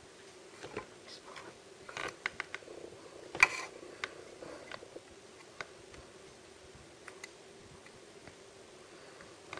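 Hands handling blind-box and blind-bag packaging: a run of crinkles and clicks, with a sharp snap about three and a half seconds in, then a few scattered ticks. A faint steady hum runs underneath.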